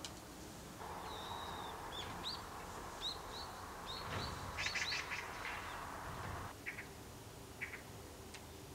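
Small birds chirping: a run of short, high, upward-slurred chirps in the first half, then a few short scratchy calls, over a faint steady hiss that stops about two-thirds of the way through.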